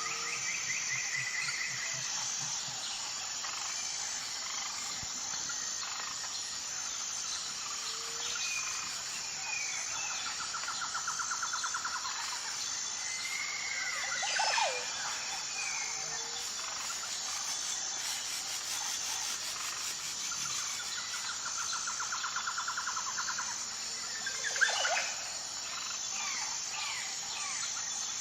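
Wild birds calling over a steady chorus of insects. Rapid trilled phrases come twice, and two sharp calls sweep steeply downward in pitch, the second, near the end, the loudest sound.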